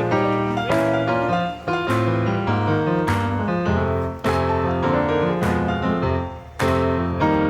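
Background piano music: a melody of struck chords and single notes, each ringing and fading before the next.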